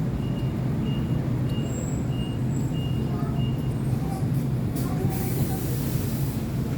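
Isuzu Erga bus's diesel engine idling steadily. A short high beep repeats about every 0.6 s for the first three seconds, and a hiss of released air comes about five seconds in and lasts over a second.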